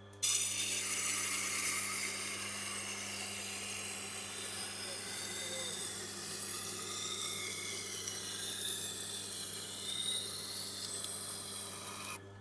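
Steel knife edge ground against a Tormek's 80-grit diamond wheel: a steady, high grinding hiss that starts abruptly and cuts off near the end, over the machine's low motor hum. The grinding is raising a burr on the edge.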